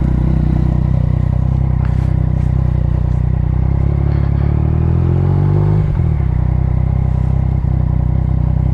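Motorcycle engine running while riding. The revs climb for about two seconds, then drop sharply about six seconds in.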